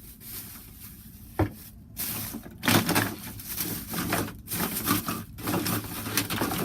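Handling noises as wooden toy trains and their packaging are moved about: rustling and clicking, with a sharp knock about a second and a half in, over a faint low hum.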